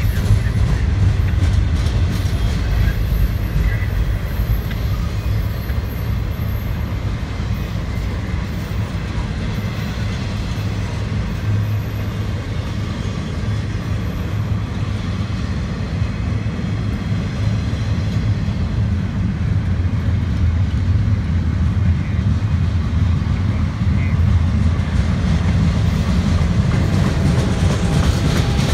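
Intermodal freight train rolling past, its flatcars loaded with highway trailers and containers, with a steady low rumble of wheels on rail.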